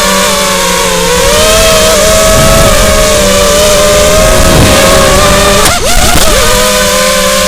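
Racing drone's motors and propellers whining, the pitch wavering up and down with the throttle, with a brief dip and a click about six seconds in.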